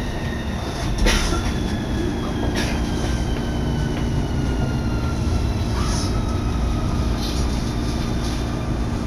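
Inside an electric commuter train braking into a station: a whine from the traction motors slides slowly down in pitch as the train slows, over a steady low hum, with a few sharp clacks from the wheels.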